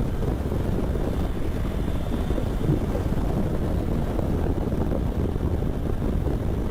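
Steady rush of wind on the microphone while riding a Triumph Tiger 900 motorcycle at highway speed, with engine and road noise underneath.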